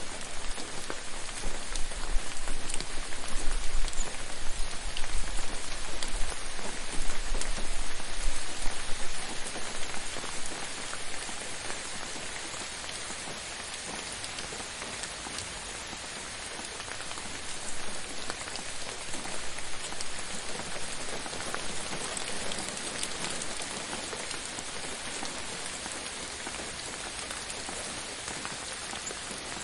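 Steady rain falling, with individual drops heard in it. It is louder for the first several seconds, with a low rumble underneath, then settles to a slightly gentler, even fall.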